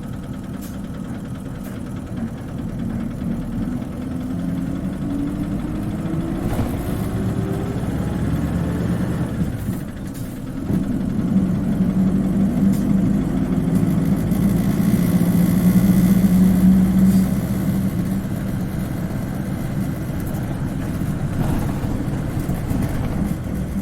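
Isuzu Cubic KC-LV380N city bus engine heard from inside the cabin, pulling away with a rising whine, dropping briefly at a gear change about ten seconds in, then running on steadily under load. This bus is known for an unusually high-pitched engine sound when moving off.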